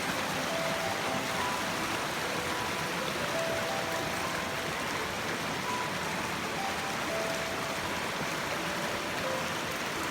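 Running stream water, a steady rushing wash, with faint short high notes scattered over it.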